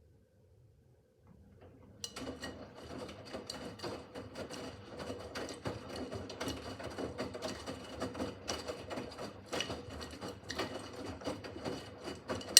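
Miele W5801 WPS washing machine's drum turning during the wash phase: the motor starts about two seconds in and runs with a steady whine and a busy rattle of laundry and water tumbling in the drum, ending with a sharp knock near the end.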